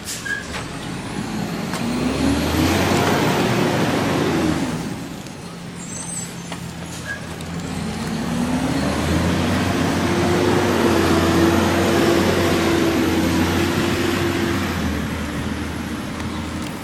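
Garbage truck's engine revs up twice: briefly about two seconds in, then again from about eight seconds, held high for several seconds before easing back down.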